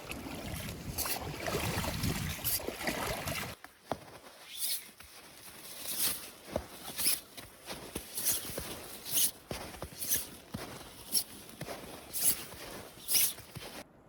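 Wind rushing over the microphone for the first few seconds, then, after an abrupt change, footsteps crunching in snow at a walking pace, about one step a second.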